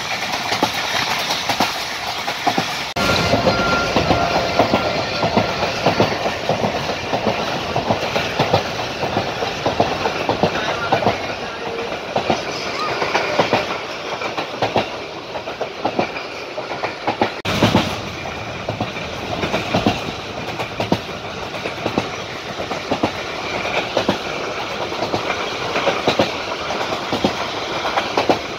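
Passenger train running at speed, heard from aboard the carriage: a steady rumble and rattle with dense wheel clicks over the rail joints. There is a brief louder clatter a little past halfway.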